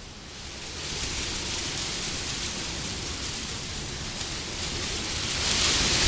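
Wind blowing as a steady rushing noise, easing briefly at the start, then building and swelling into a louder gust near the end.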